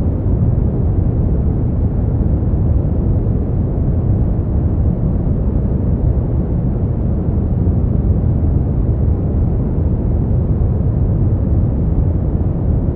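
Brown noise: a steady, deep, even hiss, heaviest in the bass and thinning out towards the treble, with no tones or changes.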